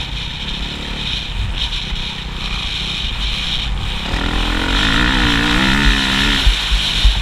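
Motocross motorcycle engine running, with its note rising and falling in pitch for a couple of seconds past the middle.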